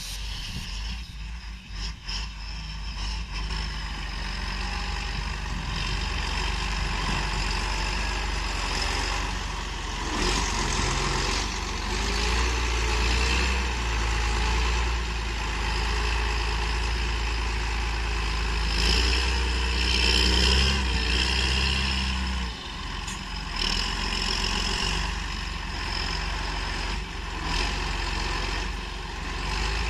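John Deere 8420 tractor's six-cylinder diesel engine running steadily, with a strong low rumble.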